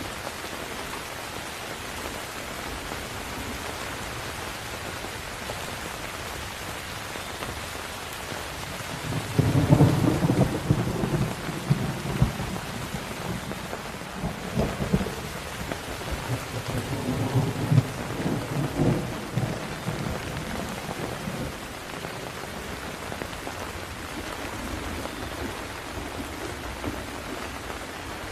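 Steady heavy rain hissing, with a long roll of thunder starting about nine seconds in, loudest at its start, crackling and rumbling on for about twelve seconds before fading back under the rain.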